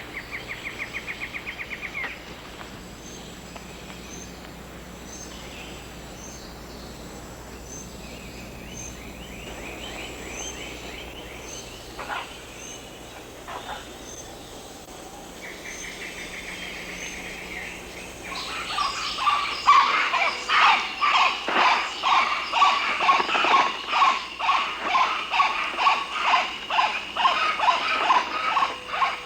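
Tropical rain forest wildlife calling: several short, fast, high trills and faint regular high chirps. About two-thirds of the way through, a much louder call starts and repeats about twice a second.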